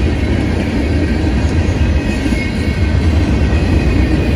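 Freight cars of a manifest train rolling past at close range: a loud, steady rumble of steel wheels on rail.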